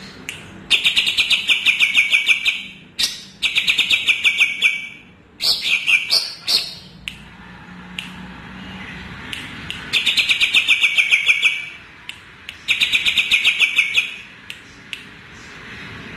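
Cucak ijo (green leafbird) singing: five loud phrases of rapid repeated chattering notes, each one to two seconds long, with short pauses between.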